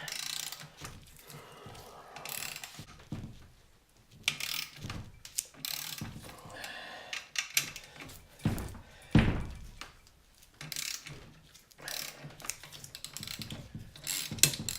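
Ratchet and socket clicking as nuts are undone on a BMW R80 airhead cylinder head, with loose metal parts clinking and knocking; a heavier knock comes about nine seconds in.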